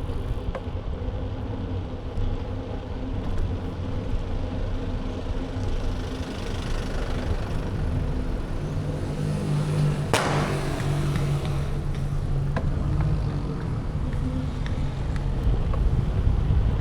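Wind rumbling on the microphone of an action camera mounted on a moving bike, with road noise and a steady motor-vehicle hum that grows for a few seconds midway. A single sharp knock comes about ten seconds in.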